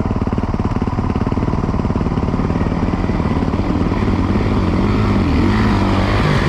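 Dirt bike engine running close up, cutting in suddenly at the start; from about four seconds in its pitch rises and falls repeatedly.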